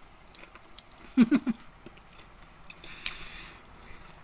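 A person chewing a soft piece of fried flour-and-sugar dough, with a short voiced sound in three quick pulses about a second in, and a sharp mouth click with a brief hiss near three seconds.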